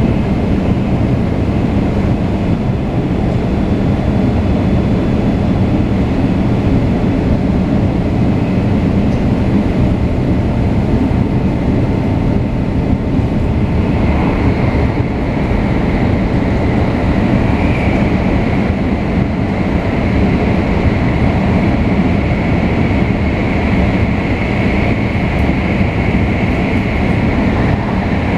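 Shinkansen 500 series train with Toshiba GTO-VVVF traction drive, running steadily with a dense, even rumble. A higher whine joins about halfway through and holds.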